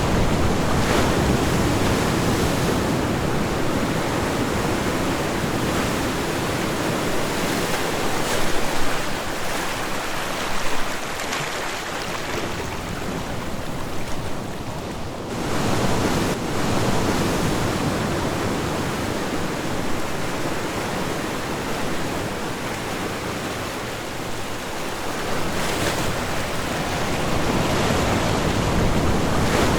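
Ocean waves washing onto a shore, a steady rush of surf that swells and ebbs, with a lull about halfway through and a fresh surge near the end.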